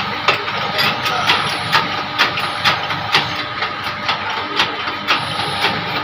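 Sharp metal knocks, about two a second, as the failed bearing of an e-rickshaw motor is worked off the rotor shaft, over a steady machine hum.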